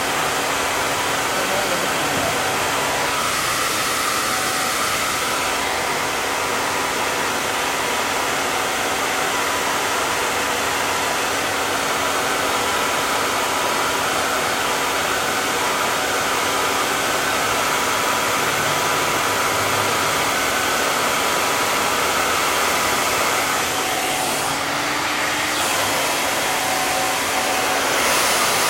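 Hair dryer blowing steadily with a faint steady hum. Its hiss changes briefly a few seconds in and again near the end.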